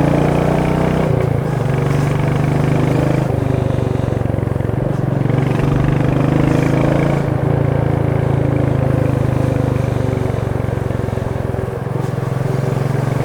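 Exhaust of a Royal Enfield Meteor 350's single-cylinder engine running steadily while the motorcycle is ridden, its note shifting slightly in pitch a couple of times.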